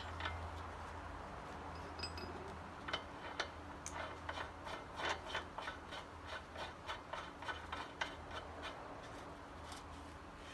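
Light metallic clicks and rubbing as a rear axle nut is started onto a motorcycle axle, a run of irregular ticks, several a second, thickest in the middle, with a steady low hum under them.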